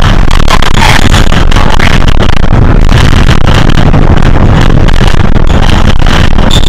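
Hino HS8JRVL-UTF city bus heard from on board while moving: steady diesel engine rumble with constant rattling of the cabin, very loud.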